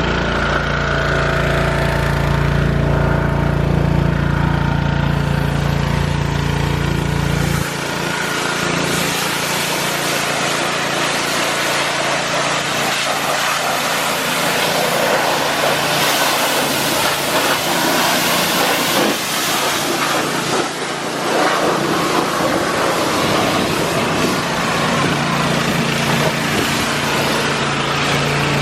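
Engine running with a steady low hum that drops away abruptly about eight seconds in, leaving a loud, steady hiss of water spraying on the truck during a wash; the low hum comes back near the end.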